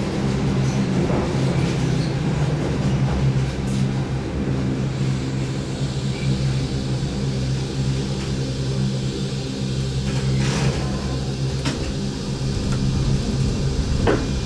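Keihan 8000-series electric train running at steady speed, heard inside the passenger car: a steady low hum with running noise under it, and a few sharp clicks near the end.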